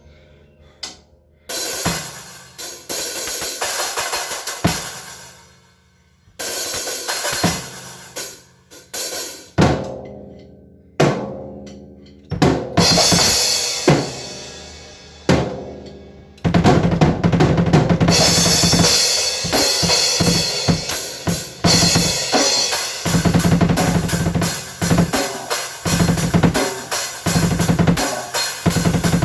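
Drum kit being played: separate crashes and hits left to ring out for the first half, then about halfway in a steady, busy beat of bass drum, snare and cymbals.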